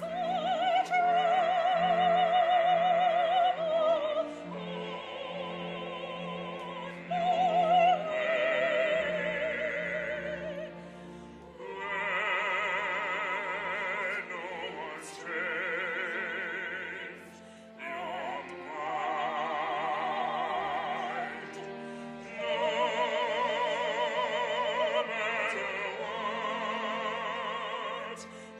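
Operatic singing with wide vibrato over sustained instrumental accompaniment, in several phrases with short breaths between them.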